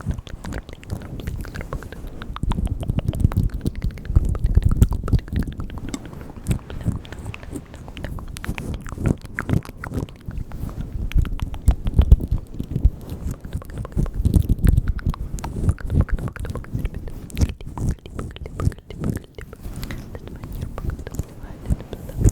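Close-microphone ASMR mouth sounds: a dense, irregular run of wet clicks and smacks, with no words.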